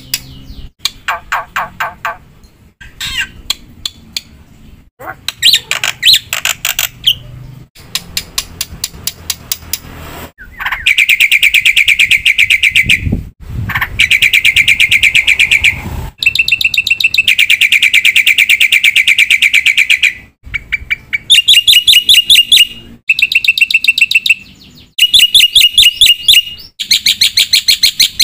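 Black-winged myna (jalak putih) singing: first short runs of rapid clicking and trilled notes, then, about ten seconds in, long, loud, fast trills lasting several seconds each, then shorter trilled phrases with brief gaps.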